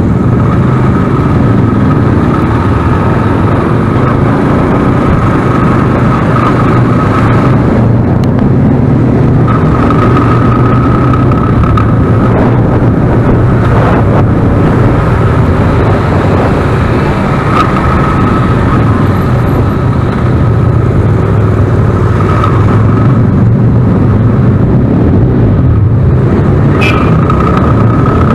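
Motorcycle engines running steadily, a loud, even low drone with a thin high whine that comes and goes.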